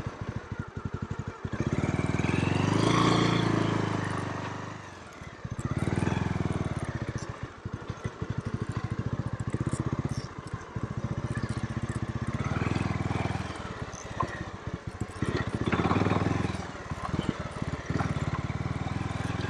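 Motorcycle engine running at low speed, rising in level three times as it is throttled up.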